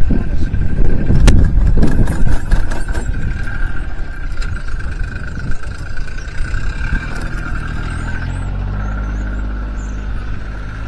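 Wind buffeting the microphone over a motor engine running, which settles into a steady, even hum in the second half.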